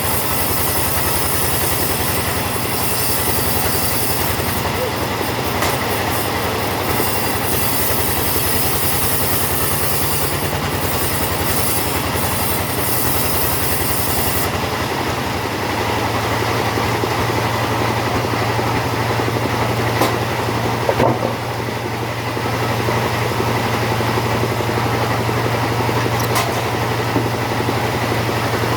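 Two-stroke chainsaw cutting through teak wood at high revs, then dropping to a steady idle about halfway through. A couple of sharp knocks are heard during the idle.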